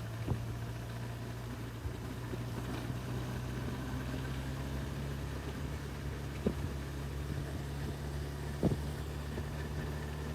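Honda CB1000R's inline-four engine running steadily while riding, heard from on board the motorcycle. A few brief knocks are heard over it.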